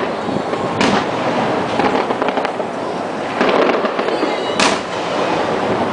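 Fireworks bursting overhead: two sharp bangs about a second in and near the end, with a spell of crackling between them, over a steady background rumble.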